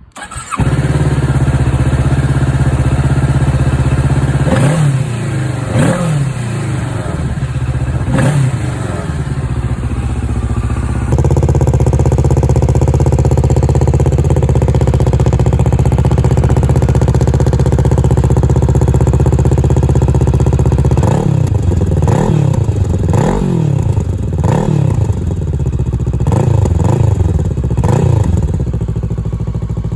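Kawasaki Ninja 650's parallel-twin engine running through a newly fitted Trickstar aftermarket muffler. It is revved in three throttle blips, then holds a steady stretch, then is blipped about six times in quick succession near the end.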